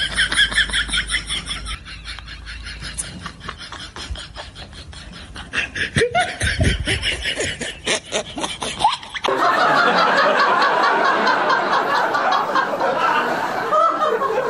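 Laughter in quick, repeated snickering pulses; about nine seconds in, a louder, denser stretch of sound cuts in suddenly and holds to the end.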